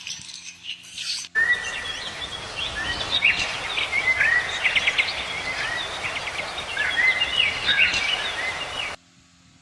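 Small birds chirping, many short rising and falling chirps over a steady outdoor hiss. It starts suddenly about a second in, after a few faint clicks, and cuts off abruptly near the end.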